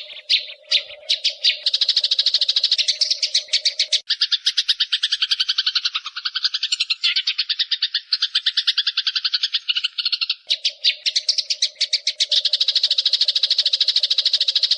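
Small songbird chattering: a fast, unbroken run of sharp chirps, about ten a second. In the middle of the run the notes drop lower, and a faint steady hum sits under the chatter at the start and near the end.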